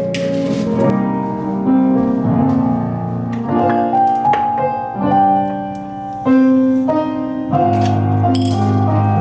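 Background piano music: chords and a melody of held notes that move on every second or so.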